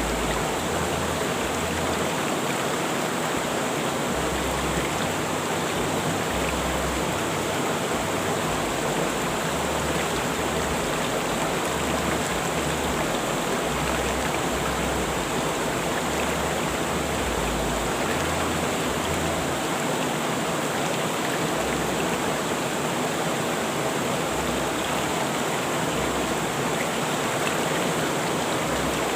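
Rushing river water flowing steadily, an even, unbroken rush with no let-up.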